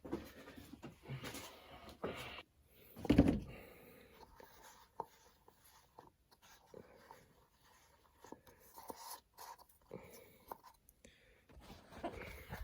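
Scattered clicks, light knocks and rubbing of hands handling tools and car parts during engine work, with one louder knock about three seconds in.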